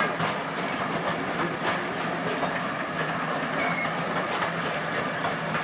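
A train's carriages rolling past on the track, with a steady rush and repeated clicks from the wheels passing over the rail joints.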